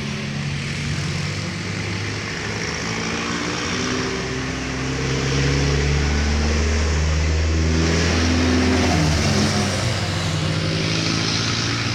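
Heavy diesel vehicle running close by. It gets louder about halfway through as its deep engine note strengthens, and the engine pitch shifts up and down in steps.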